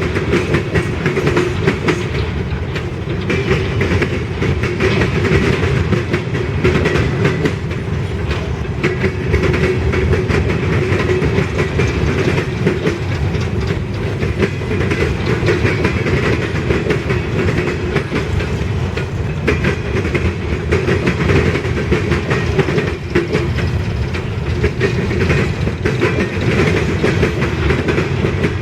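Freight train cars rolling past, steel wheels clicking over the rail joints with a loud, steady rumble.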